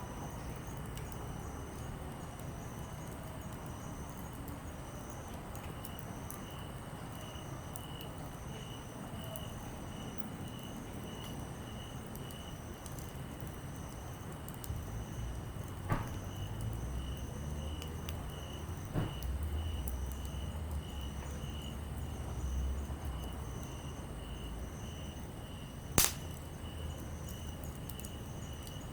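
Wood fire burning with a few sharp pops, the loudest near the end. Insects chirp steadily behind it, about two pulses a second.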